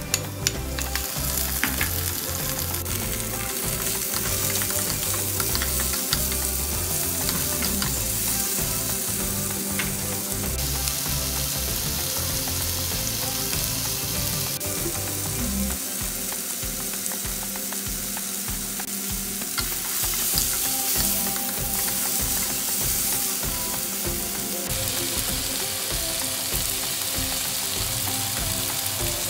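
Sliced potatoes, onion and garlic sizzling in oil in a nonstick wok as they are stirred, with a steady frying hiss and a couple of sharp knocks just after the start.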